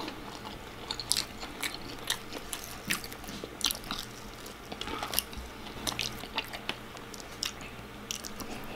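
A person chewing and biting food, with irregular crisp crunches, one or two a second.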